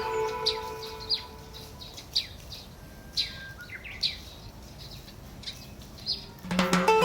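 Wild birds chirping: short falling chirps about once a second. Background music fades out in the first two seconds and comes back near the end.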